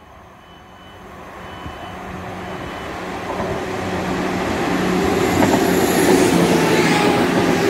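ScotRail Class 170 Turbostar diesel multiple unit passing through the station, its engine drone and wheel-on-rail noise growing steadily louder as it comes close.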